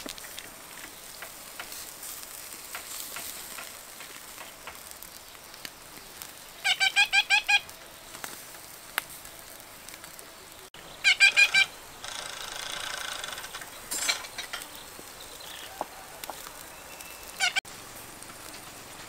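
A bird calling in loud, rapid bursts of repeated high notes: one burst of about a second a third of the way in, another past halfway, and a short one near the end. Underneath, a low steady sizzle from a whole duck grilling on a wire rack over charcoal.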